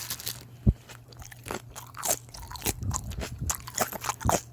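Someone chewing freshly made baby napa cabbage kimchi: a quick run of irregular crisp crunches and wet crackles as the raw cabbage is bitten and chewed.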